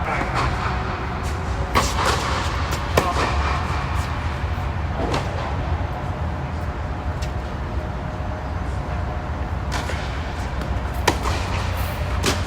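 Tennis balls struck by rackets in a doubles rally: sharp pops about a second apart, in two runs with a pause between, over a steady low background rumble.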